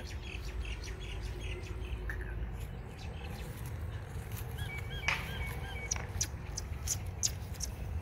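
Small birds chirping, with a run of short repeated chirps about halfway through and sharp high ticks after it, over a low steady rumble.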